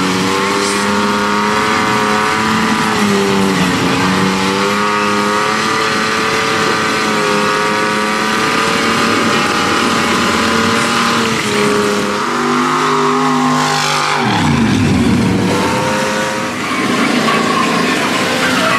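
Mud-bogging truck engines running hard at high revs for a long stretch, their pitch wavering. About fourteen seconds in, one engine's pitch drops sharply as it comes off the throttle.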